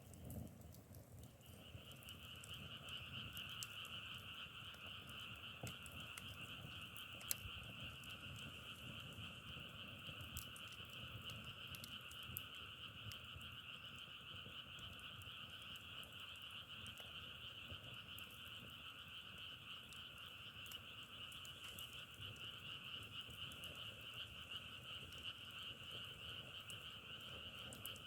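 A chorus of frogs calling steadily and faintly, starting about a second in, with scattered light clicks.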